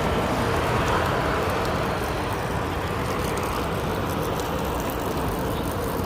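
Steady road traffic noise of vehicle engines and tyres on the street, a low rumble that eases off slightly about two seconds in.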